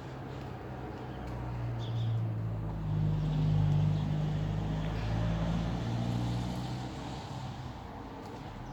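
A motor vehicle engine passing by: a low hum that swells over a couple of seconds and then fades away.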